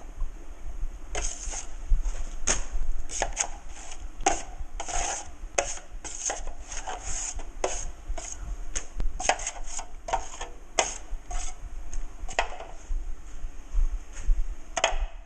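Drywall knife scraping wet joint compound in quick, irregular strokes, about two or three a second, while a patch is being coated.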